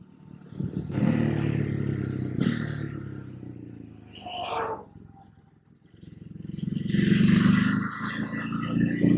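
A motor vehicle engine running with a rushing noise over it. The sound swells and fades, drops away almost to nothing about five and a half seconds in, then swells again near the end.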